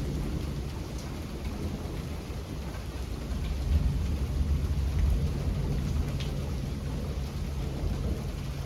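Steady rain with a low rumble of thunder that swells about four seconds in and eases off.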